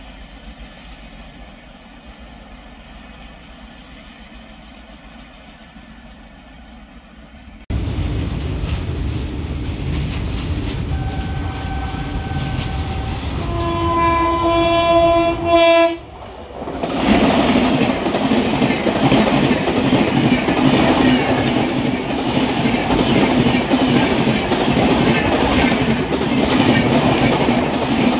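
Indian express train sounding its horn, a shorter higher note and then a longer one, and then running past close by with a loud rumble and the clickety-clack of wheels over rail joints. It starts with a faint steady background that gives way suddenly to the train's rumble about a third of the way in.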